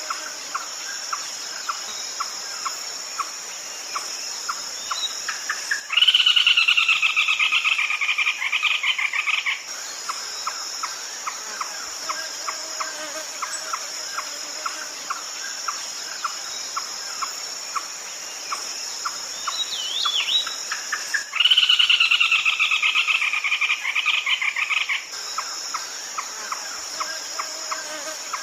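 Red-legged crake calling: a steady run of short, sharp kek notes about two a second, twice broken by a loud, rapid rattling series about three and a half seconds long that drops slightly in pitch. The pattern repeats the same way about fifteen seconds apart, as in a looped lure recording.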